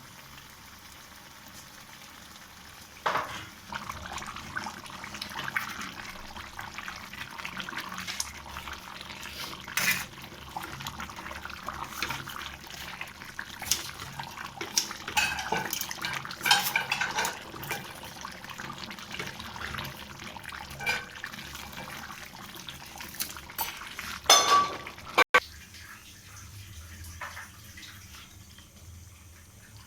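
Kitchen utensils and dishes clinking, knocking and scraping, in irregular sharp strikes, the loudest cluster about 24 seconds in.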